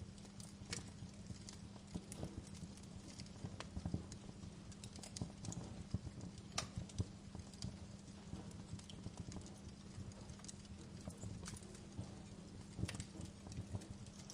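Wood fire burning in a fireplace, crackling and popping irregularly, with a few sharper pops standing out, over a steady low rumble of the flames.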